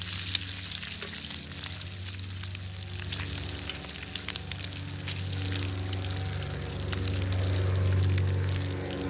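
Bacon sizzling in a pan over a crackling fire, a steady hiss full of small sharp pops. A low steady hum builds up under it in the second half.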